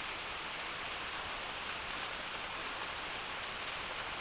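Steady rushing of water from a waterfall, a light flow outside the rainy season.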